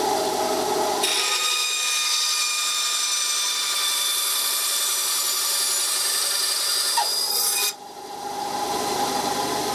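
Small power tool motor whining steadily while cutting into wood to make slots. Its sound gets higher and brighter about a second in and drops back near the end.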